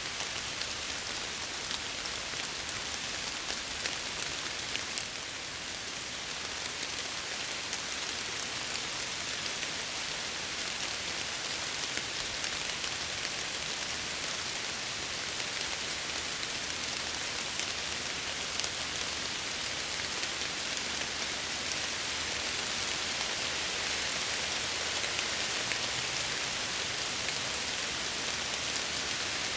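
Steady rain falling, with the fine patter of drops striking window glass.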